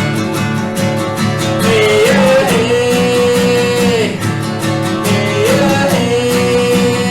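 Devotional song with strummed acoustic guitar and a voice holding long sung notes, each scooping up into pitch, about two seconds in and again near the end.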